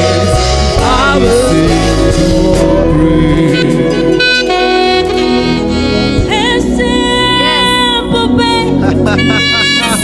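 Live gospel worship band playing: a saxophone holds long sustained notes over keyboard and bass, with singing.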